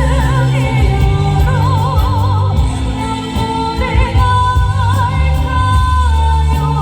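A singer performing a Korean song over a backing accompaniment with a steady bass, putting a wide vibrato on the held notes.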